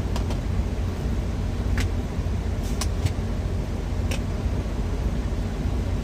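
Steady low rumble of an idling truck engine, with several light clicks scattered through it.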